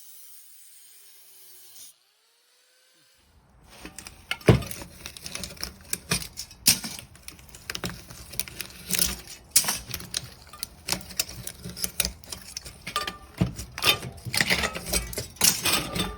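Rapid, irregular clattering and knocking of hard objects, preceded by a brief steady hiss that cuts off about two seconds in.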